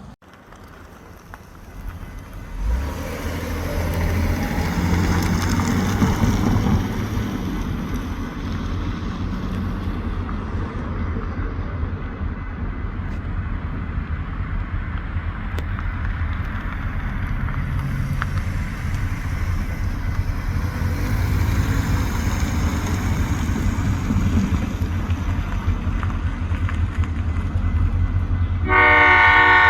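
Diesel locomotives pulling a train, a steady low rumble that builds up over the first few seconds. Near the end the locomotive horn starts blowing, a loud chord of several tones at once.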